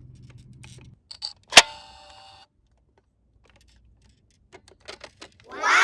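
Toy camera taking a picture: a sharp, loud shutter click followed by a short steady electronic beep-tone lasting under a second. A couple of light button clicks come just before it, and a few more come later.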